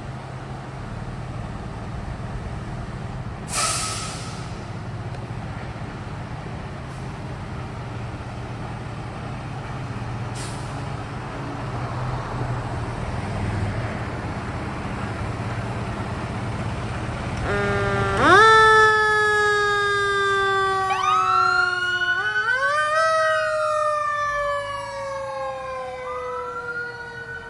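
A fire engine's motor runs with a steady low rumble, with a short hiss about four seconds in. About eighteen seconds in, its siren starts, rising sharply and then gliding slowly down and back up in a wail.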